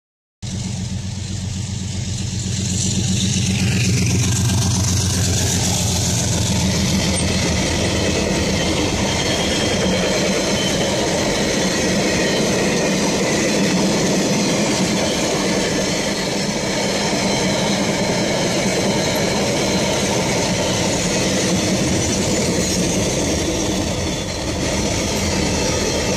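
Diesel-hauled train passing through a level crossing, heard from inside a car waiting at the barrier: a low engine drone for the first few seconds, then a long steady rumble of the wagons going by.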